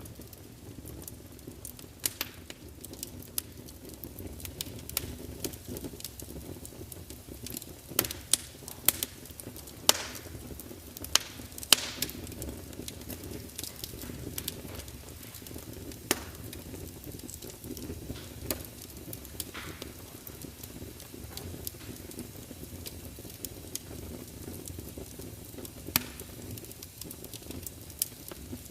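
Log fire in a large open fireplace burning with a steady low rush, crackling and spitting in irregular sharp pops, with a cluster of louder pops a third of the way through and another near the end.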